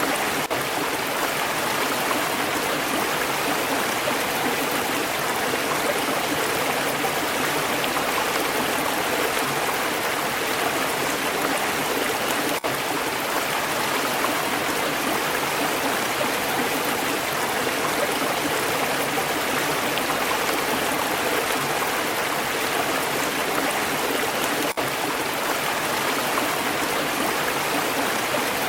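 Stream water flowing and babbling in a steady, even rush, with two momentary dips in level about 12 and 25 seconds in.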